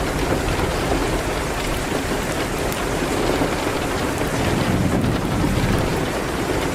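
Steady rain hitting a window, mixed with faint scattered crackles from a fireplace.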